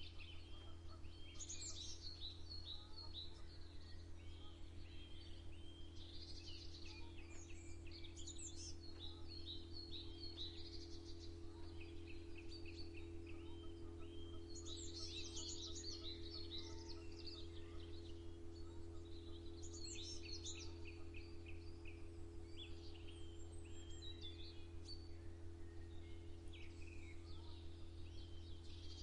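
Songbirds singing in repeated phrases of quick chirps and trills, over a steady low hum.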